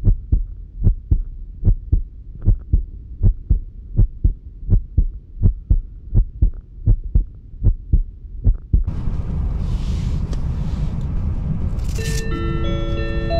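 Train wheels clacking over rail joints, heard inside the carriage as a steady run of muffled knocks about three a second. About nine seconds in the clacking gives way to a steady running rumble, and near the end an onboard announcement chime plays a few held notes.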